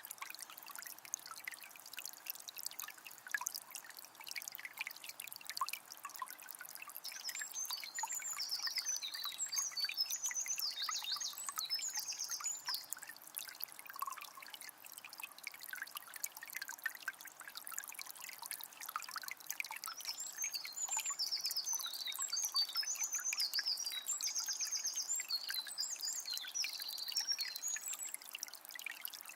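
Water of a small spring trickling and splashing steadily. A songbird sings two long, high, warbling phrases with trills over it, one about a quarter of the way in and another just past the middle.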